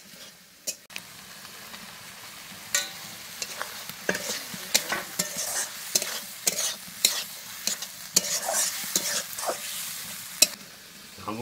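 Snail pieces sizzling as they fry in spiced masala in a steel wok, stirred with a metal spatula that scrapes and clicks against the pan many times. One click near the end is especially loud.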